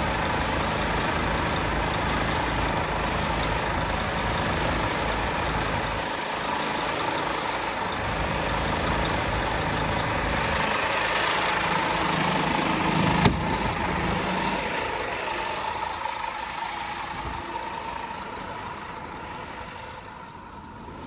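Scania P230 truck's diesel engine running steadily at idle, with a single sharp click about 13 seconds in; the sound slowly fades over the last several seconds.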